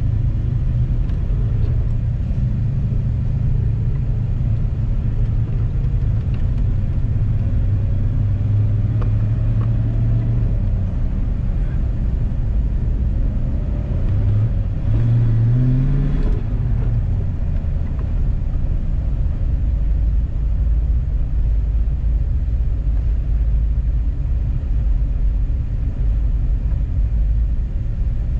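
Car engine running with a steady low road rumble. About halfway through the engine pitch rises briefly as the car accelerates, then drops back to a steady drone.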